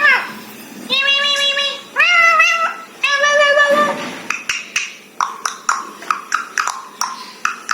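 Indian parrot calling: three drawn-out, even-pitched calls of about a second each, then from about four seconds in a quick run of short, sharp chirps, two or three a second.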